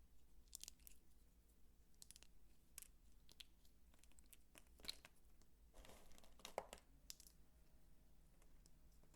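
Close-up handling of soap: scattered soft crackles and crisp clicks, with one longer crinkly crunch about six seconds in.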